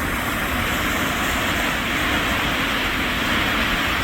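River water pouring over a man-made waterfall, a loud, steady rush.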